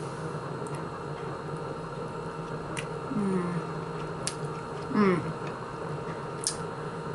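Two short wordless voice sounds, sliding in pitch, about three and five seconds in, the second the louder. A few light sharp clicks fall around them, over a steady low background hum.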